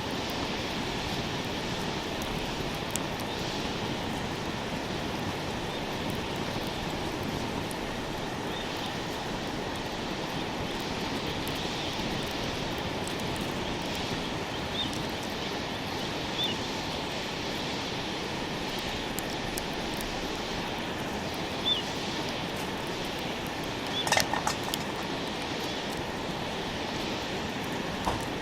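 Steady outdoor rushing noise with a few small clicks and short high chirps, and a brief metallic clatter about 24 seconds in.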